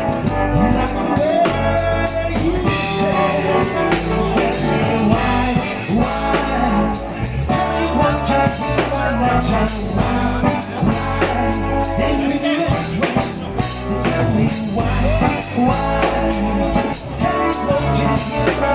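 A blues band playing, with drum kit, bass line and guitar, and sung or lead melody lines over the top.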